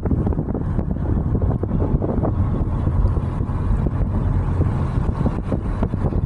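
Steady, low, rumbling rush of heavily falling water from a waterfall or water wall.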